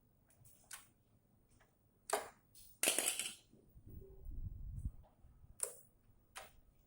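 A tool scraping and cracking at hard glue while prying a glued component off an amplifier circuit board. It comes as short sharp scrapes and cracks, the loudest and longest about three seconds in, with dull handling bumps after it.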